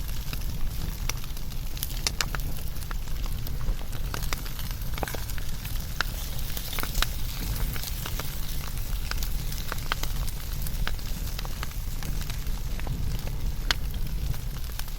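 Wood fire burning, with frequent irregular crackles and pops over a steady low rumble and hiss.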